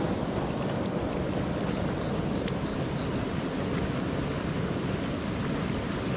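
Steady rush of storm runoff pouring and swirling out of a culvert mouth, with a few faint short high chirps about two seconds in.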